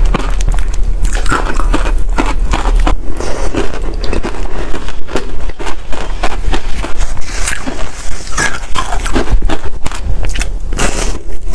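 Freezer frost being bitten and chewed: loud, continuous crunching and crackling.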